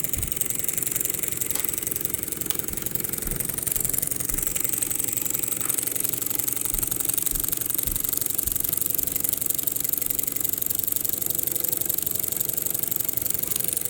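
Mamod showman's engine, a toy live-steam engine with a slide valve, running steadily with a rapid, even beat and a light mechanical rattle over a steady hiss, while driving its generator. A few soft low knocks come through now and then.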